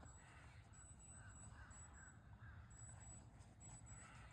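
Faint distant bird calling in a run of about five short, evenly spaced calls, over near-quiet outdoor air with a low wind rumble.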